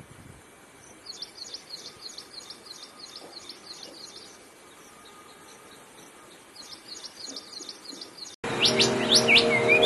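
Bird chirping in quick runs of short, high chirps, with pauses between runs, over a faint steady hiss. Near the end the sound cuts suddenly to a louder passage of sweeping bird calls over steady held tones.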